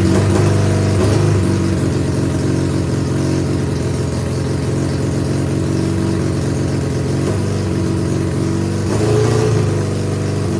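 1978 Suzuki GS750's inline-four engine idling steadily, with a brief rise in revs near the start and again about nine seconds in. It is still warming up just after starting, with fuel working its way through.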